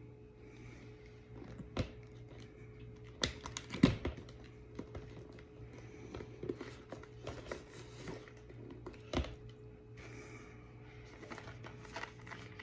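Irregular light clicks and taps of small objects being handled, with a louder knock about four seconds in and another about nine seconds in, over a steady low hum.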